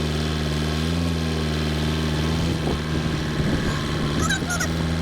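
Tractor engine running steadily at low revs, its pitch lifting slightly about a second in. A few high chirps come near the end.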